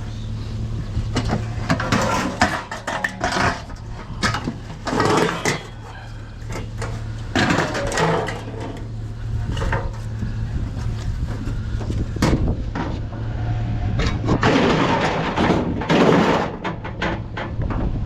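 Scrap metal being handled and loaded: repeated clanks and knocks, some in quick clusters, over a steady low hum.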